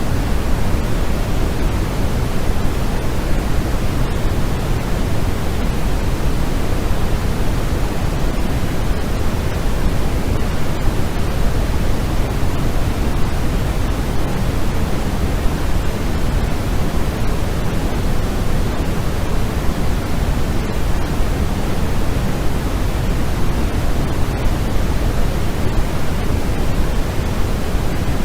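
Steady, unchanging electronic noise sold as white noise for sleep. Its even hiss is heavier at the low end than at the top, closer to pink noise.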